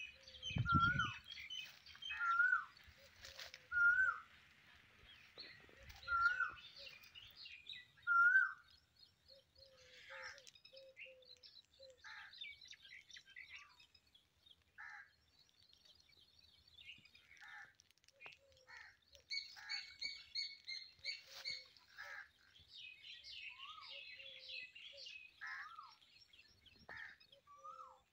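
Several birds calling: one repeats a short whistle that rises and drops, about every second and a half for the first eight seconds, over scattered chirps from other birds. After that the chirping goes on more quietly and thickly, with occasional short low notes. A brief low rumble comes right at the start.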